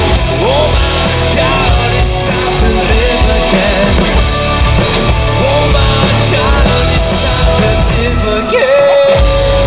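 Live rock band playing loud, dense rock music. Near the end the bass and drums drop out for a moment, then come back under a long held note.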